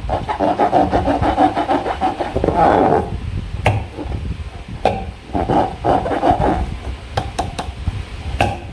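Slime and rubber balloons being squeezed and worked by hand. A dense run of sticky crackling and squelching lasts about three seconds, followed by scattered sharp pops and shorter squishes.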